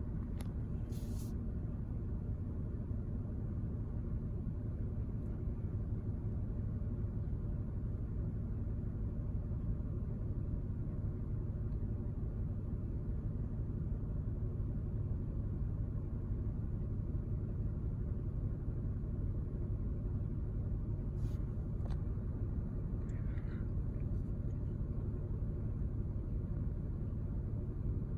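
Car engine idling: a steady low rumble heard from inside the car.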